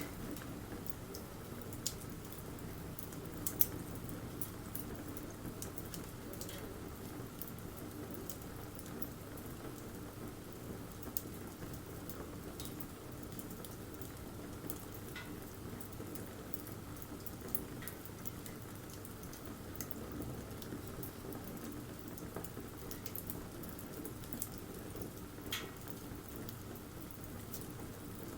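Wood campfire burning: a steady low rushing with scattered sharp crackles and pops, the loudest pop about three and a half seconds in.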